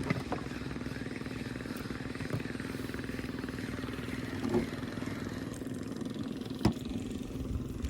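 Fishing boat's engine running steadily, with a few short sharp knocks, the loudest near the end.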